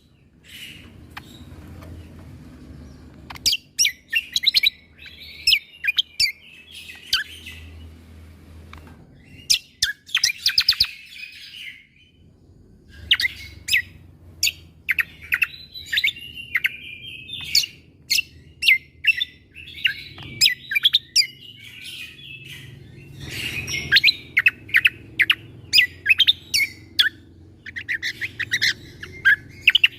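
Cucak kombo (kecial kombok) singing. Repeated volleys of very rapid, sharp staccato notes, the 'tembakan' (shot) notes, alternate with short twittering phrases and brief pauses.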